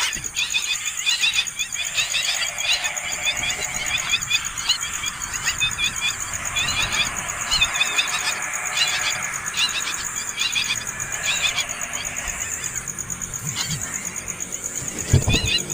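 Nestling birds begging for food with rapid, repeated high chirps that run on without pause, the calls of hungry chicks.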